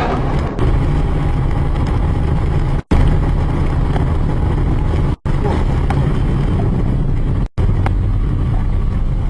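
Road and engine noise of a moving car picked up by a dashcam, a steady low noise. It breaks off abruptly three times, at splices between clips.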